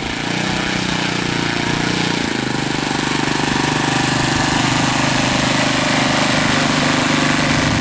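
Quarter-scale radio-controlled Cub model airplane's engine running, with its pitch stepping down about two and a half seconds in as the throttle is eased back, then holding steady and growing a little louder. Wind noise hisses over it.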